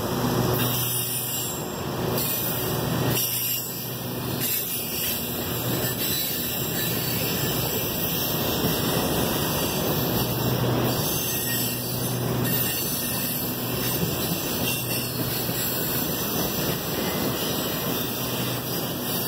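Freight train of tank cars rolling past, a steady noise of wheels running on the rails, with a faint low hum underneath.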